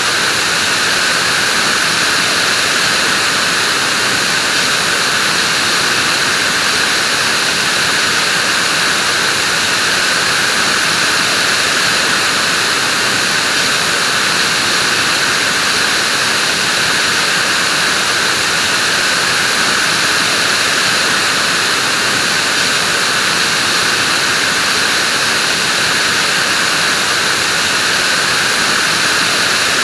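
Vacuum cleaner running steadily: an even, unbroken whooshing hiss with a high whine in it and hardly any bass.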